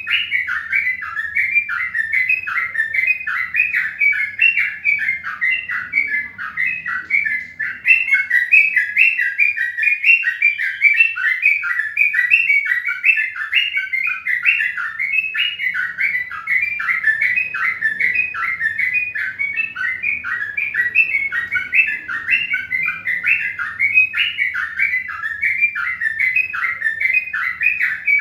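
Birds chirping without a break, dense overlapping short chirps that fall in pitch, several a second.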